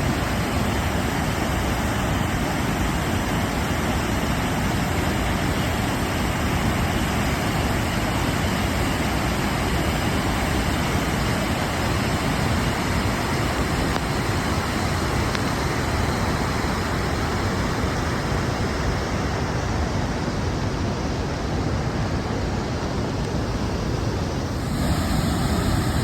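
Steady roar of a large waterfall heard close up in its spray, with a slight shift in the sound about a second before the end.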